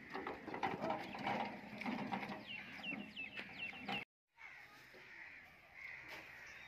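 Birds calling in quick runs of short falling chirps over the rattle and knocking of a metal wheelbarrow being pushed across rough dirt. The sound cuts out briefly about four seconds in, then fainter birdsong goes on.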